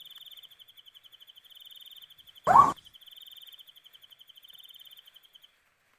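An owl gives one short, harsh, rising call about two and a half seconds in, part of a series repeating every four seconds or so. Under it an insect, likely a cricket, trills steadily at a high pitch and stops shortly before the end.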